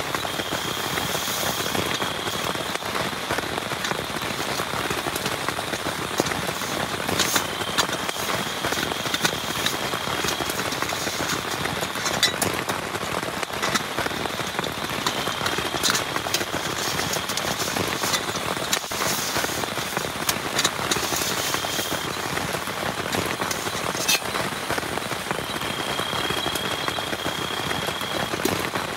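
Heavy rain falling steadily, with many sharp individual drop hits. A thin, high, steady tone comes and goes five times, each time for one to three seconds.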